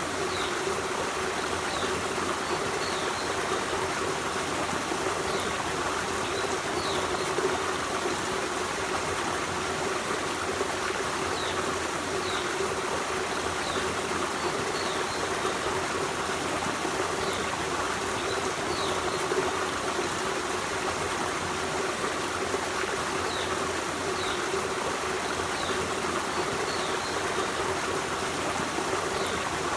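Forest stream running steadily with an even rushing and trickling of water. Brief faint high chirps come through every few seconds.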